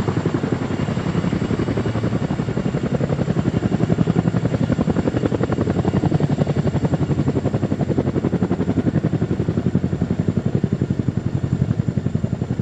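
Helicopter rotor blades beating in a fast, steady rhythm, with engine and turbine noise behind them; it gets a little louder about three seconds in.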